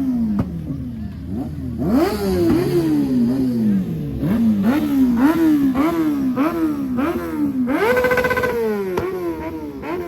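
Car engine revved hard again and again, its pitch climbing and dropping about twice a second, held high for a moment near the end.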